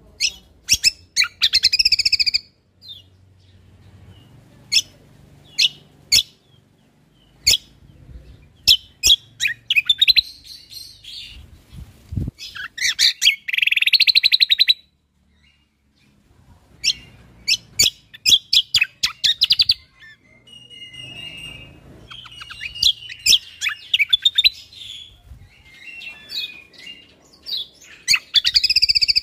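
Cucak kombo (kecial kombok) singing a loud, full competition-style song: runs of sharp, rapid high chirps and burst-like 'tembakan' phrases, broken by short pauses.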